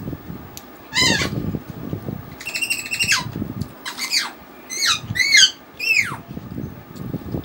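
A bird squawking about six times, harsh calls that mostly fall in pitch at the end, one of them longer and held, over soft eating sounds.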